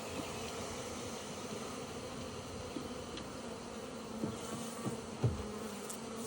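Honey bee swarm buzzing: many bees in the air at once, a steady drone, as loose bees search for the queen's scent after the cluster has been shaken into a nuc box. A few soft knocks sound about two thirds of the way in.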